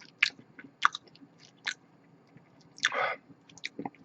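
Close-miked chewing and eating mouth sounds: scattered wet clicks and smacks, with a short breathy burst about three seconds in.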